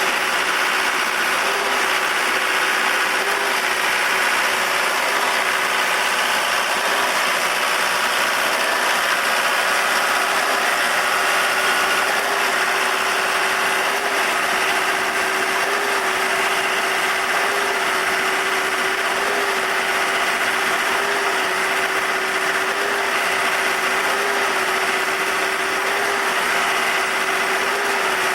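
A REED A40HP trailer concrete pump running steadily, its engine droning at an even pitch, with a slight regular swell in tone about every two seconds.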